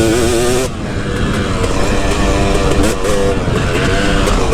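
KTM 250 SX two-stroke dirt bike engine being ridden hard, its pitch rising and falling with the throttle. The engine drops off sharply about a second in, then picks up again.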